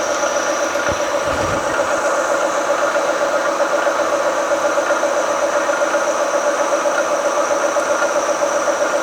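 Tree milling machine running in low gear while a 3/8-inch drill bit bores a pilot hole into a hardened steel crankshaft: a steady motor and gear hum with several even tones.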